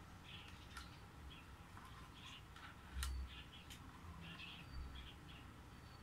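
Faint chirps of small birds, short calls repeating irregularly, with a sharp click about three seconds in.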